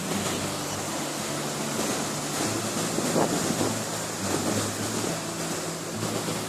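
Rushing water of a mountain river and its waterfalls, a steady loud hiss, with low held notes of background music underneath.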